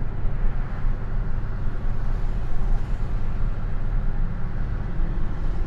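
Car's engine and road noise heard from inside the cabin while driving at a steady pace: a continuous low drone with no revving.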